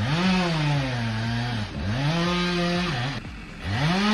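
Two-stroke chainsaw revved in three bursts. Each burst climbs in pitch and then eases off, and in the first the pitch sags as the saw takes load.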